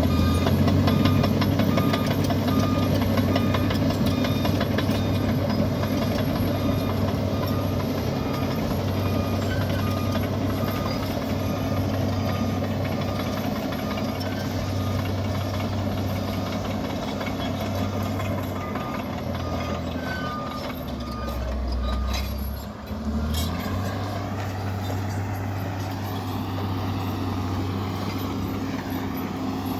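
Komatsu bulldozer's diesel engine running steadily, with a brief drop in engine speed about three-quarters of the way through before it picks back up. A short beep repeats at even intervals over much of the first two-thirds.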